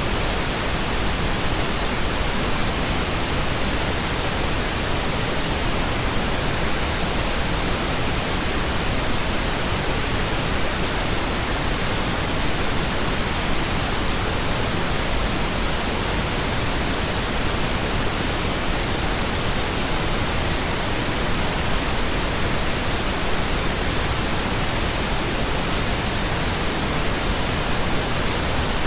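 Pink noise: a steady, even hiss with no change over time, spread evenly across the octaves so it sounds deeper and softer than white noise.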